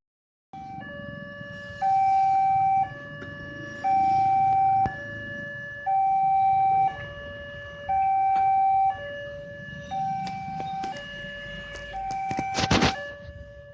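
Two-tone electronic warning siren alternating between a higher and a lower note about once a second, the higher note louder, over a low rumble. A short loud rattling burst comes near the end.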